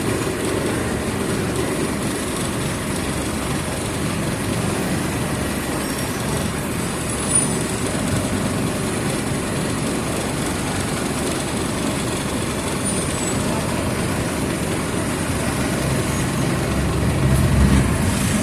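Mercedes-Benz OF 1722M city bus diesel engine running steadily under way, with a single short knock about seven seconds in. Near the end the engine note comes up louder as the bus pulls harder.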